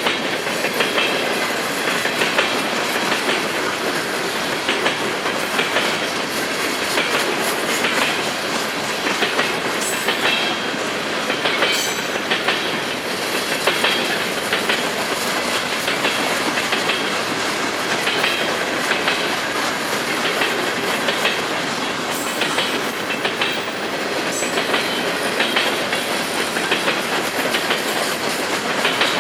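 Freight train cars rolling past with a steady rumble, their wheels clicking repeatedly over the rail joints.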